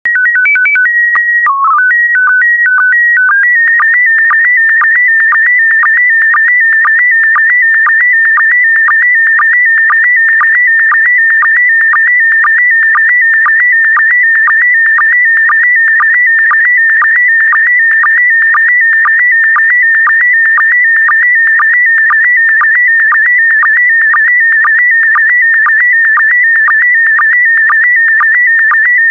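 PD120 slow-scan TV (SSTV) image transmission: a loud, high warbling tone that carries a picture. It opens with a few seconds of steady header tones stepping between pitches. After that come the scan lines, an unbroken warble cut by a short low blip about twice a second, the line-sync pulses.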